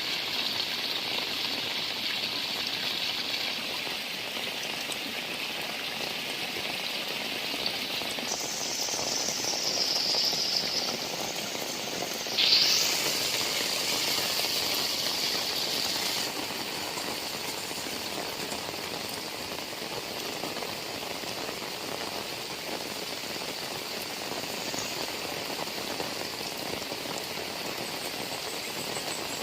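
Heavy rain falling steadily. Its sound shifts and brightens about 8 s in, and there is a brief louder burst about 12 seconds in.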